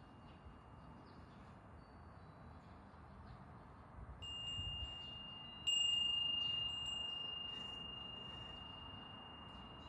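Large sahari-metal wind bell (gofū furin) by Odawara Imono Kenkyusho, rung by a breeze. A soft strike comes about four seconds in, then a loud strike just before six seconds and a lighter one a second later. Each leaves a single clear high ring that fades slowly and long.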